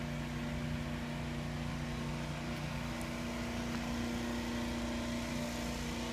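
Steady drone of a vehicle engine running, with a constant low hum and a second low tone that fades out about two seconds in.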